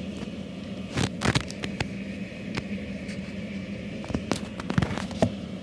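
Red-eared slider turtle snapping at food: a scatter of short sharp clicks and knocks, a cluster about a second in and another past four seconds, over a steady low hum.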